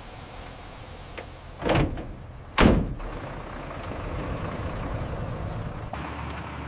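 Two short whooshes, the second one louder, about two and three seconds in, over a steady mechanical rumble that grows a little louder after them.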